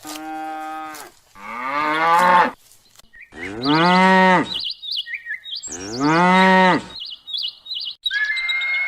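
Cattle mooing: four drawn-out calls, the first two higher-pitched than the last two, with small birds chirping between the later calls. A different birdsong takes over near the end.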